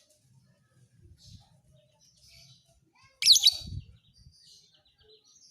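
Lovebird chirping: faint scattered chirps, then one loud half-second burst of rapid, shrill chirps a little past the middle.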